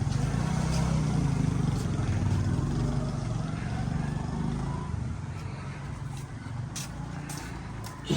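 A motor vehicle's engine running close by with a low, pulsing rumble, fading away after about five seconds.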